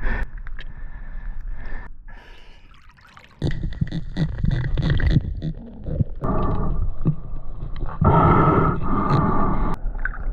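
Water sloshing and gurgling in irregular surges, with a quieter lull a couple of seconds in.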